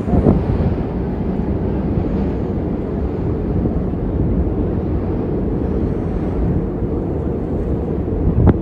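Strong wind buffeting the microphone: a steady, loud low rumble with no break.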